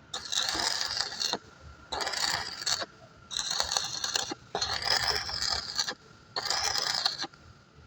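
Five scraping strokes on metal, each lasting about a second, with short pauses between them.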